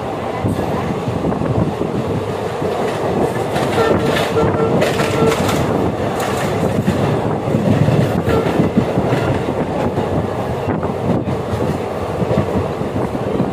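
Passenger express train running at speed, heard through an open coach window: steady rumble and rattle of the coach's wheels on the rails, with clickety-clack from the rail joints.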